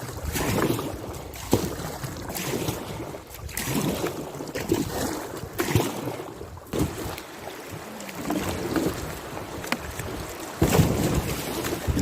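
Kayak on a moving river: water splashing and sloshing with irregular paddle strokes and a few knocks against the hull.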